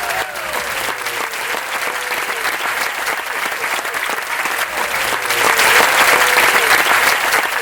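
Concert audience applauding with a few cheering whoops as a song ends, the clapping swelling louder near the end.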